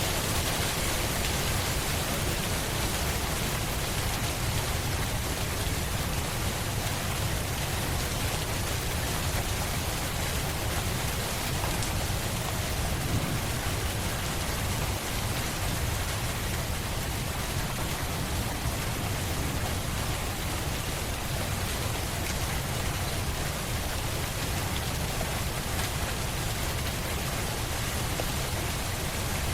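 Steady rain falling on a surface, a constant even hiss with a low rumble beneath it.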